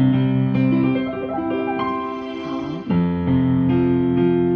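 Piano playing a slow flowing worship accompaniment: sustained left-hand chords with right-hand arpeggio notes climbing one after another over them. A new chord is struck about three seconds in.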